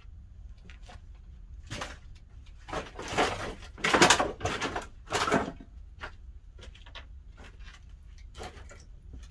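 Pine firewood being handled and fed into a wood-fired kiln's firebox: a run of short wooden clattering and scraping noises, the loudest about four seconds in.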